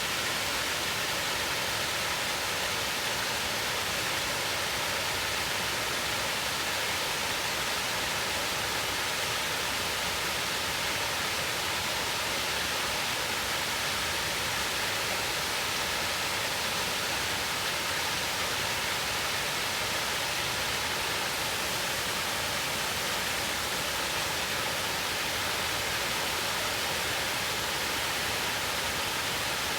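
Mountain water rushing in a steady, unbroken roar of noise.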